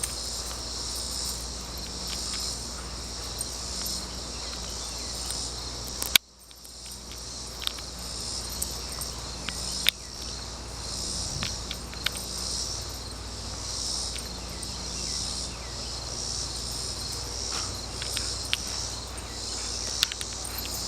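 A steady chorus of insects chirring, with scattered faint clicks and one sharp click about six seconds in, after which the sound drops out briefly.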